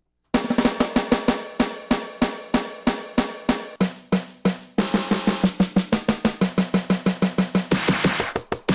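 NUX DM8 electronic drum kit played as a fast fill of snare and tom hits, moving onto cymbals about halfway through, with a crash near the end.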